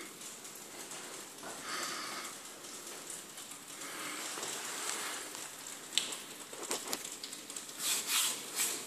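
Wood fire crackling and hissing in an open fireplace, with scattered sharp pops, the loudest about six and eight seconds in.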